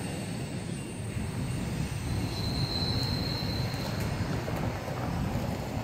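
Steady low rumble of a CSX manifest freight train's cars rolling by, with a faint high wheel squeal for a couple of seconds in the middle.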